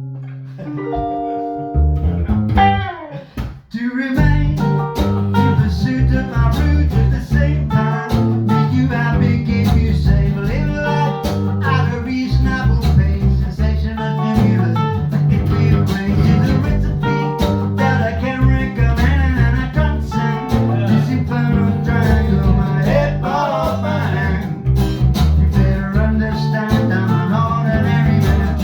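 Band music: guitar over bass and drums, with a short break about three seconds in before the full band comes in with a steady beat.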